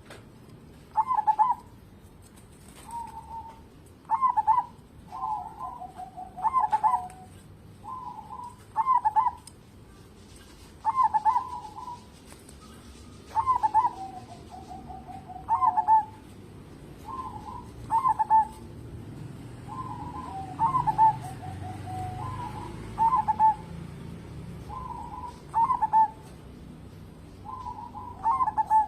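Zebra dove (local perkutut) cooing over and over, with short phrases about every two seconds, some ending in a quick run of lower notes.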